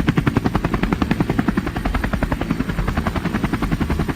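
Small engine of a DIY mini tractor running steadily, chugging in rapid, even pulses.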